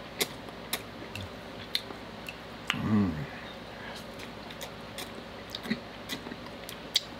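Close-up chewing of soft instant yakisoba noodles, with scattered wet mouth clicks and smacks, and a short hummed "mm" about three seconds in.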